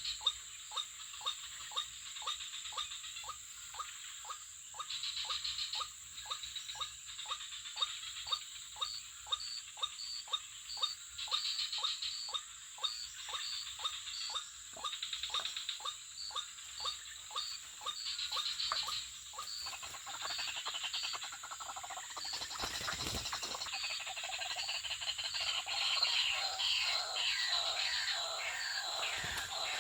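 White-breasted waterhen calls (ruak-ruak) played through a phone's small speaker as a trapping lure: a run of croaking calls repeated about twice a second, changing to a faster pattern of falling notes about twenty seconds in. A steady high insect hum runs underneath.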